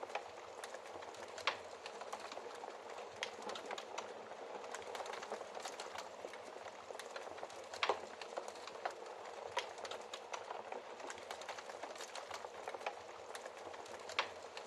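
Wood fire crackling in a fireplace: a steady hiss of burning with many small snaps, and a few louder pops about a second and a half in, near the middle, and near the end.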